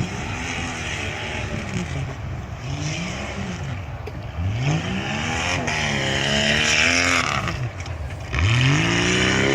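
Stock-class tuff truck's engine revving hard and easing off over and over as it is driven through the course. The revs climb sharply about four and a half seconds in and again near the end.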